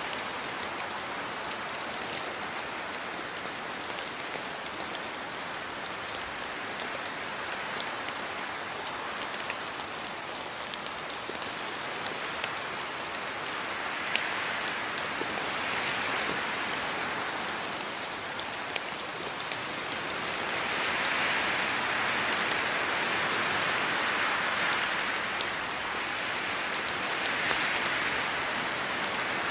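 Steady rain falling on a house's yard, with scattered drops ticking. It swells heavier for a while past the middle and again near the end.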